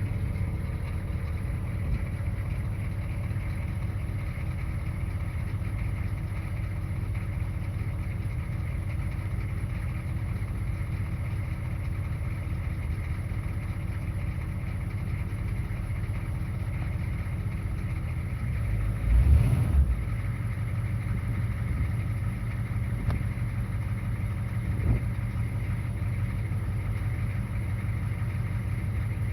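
1990 Chevrolet K5 Blazer's 6.2 L V8 diesel idling steadily after a cold start. About two-thirds of the way through there is a brief loud low surge, after which the idle runs a little heavier, and a single short click follows a few seconds later.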